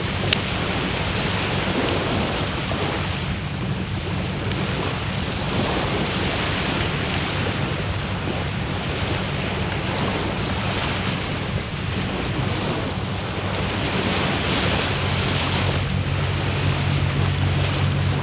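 Wood fire burning in a Coleman Fire Disk fire pit: a steady rush of flames with a few sharp crackles, one sharper pop just after the start. A thin, steady high whine runs under it.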